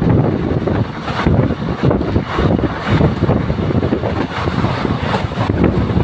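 Passenger train running at speed, heard from an open window: a steady rumble and rattle of wheels on the track, with wind buffeting the microphone.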